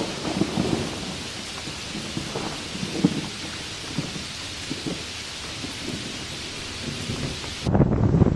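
Hurricane rain pouring down steadily with irregular low rumbling gusts. About 7.7 s in it cuts sharply to louder wind blasting on the microphone.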